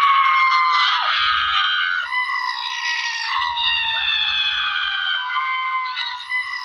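A man's long, high-pitched scream imitating a screaming goat, held for several seconds with a few short wavers and a slight downward drift in pitch.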